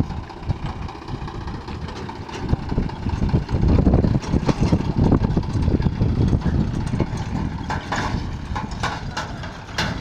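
Tractor diesel engine running at a low, uneven speed, rising in level a few seconds in. Several sharp clicks and knocks come near the end.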